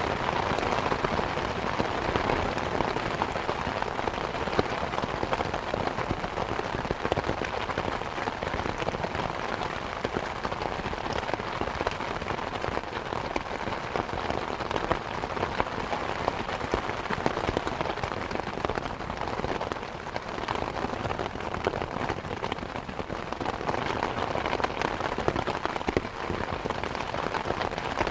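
Steady rain falling: a dense patter of single drops over an even hiss that holds at the same level throughout.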